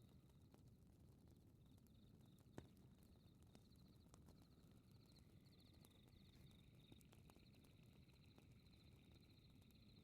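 Faint fireplace crackle: scattered sharp pops, one louder about two and a half seconds in, over a low steady rumble, with faint high pulsing chirps of night insects.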